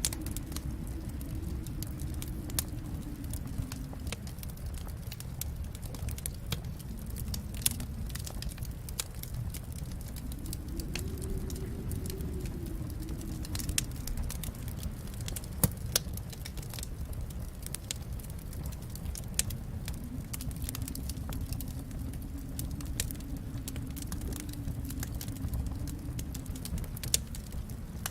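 Fire crackling in a fireplace: irregular sharp pops and snaps over a steady low rumble of the flames, with a few louder pops now and then.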